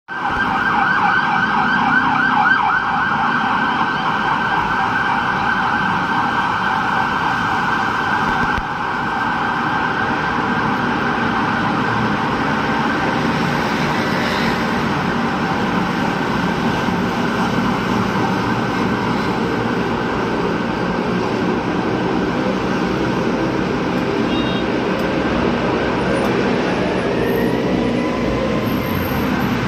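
Emergency-vehicle siren sounding in fast repeated yelps over the steady rumble of road traffic. The siren is loudest for the first eight seconds or so, then carries on somewhat fainter.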